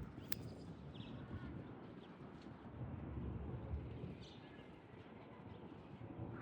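Faint outdoor ambience: a few short bird chirps over a low, steady rumble that swells and fades midway, with one sharp click near the start.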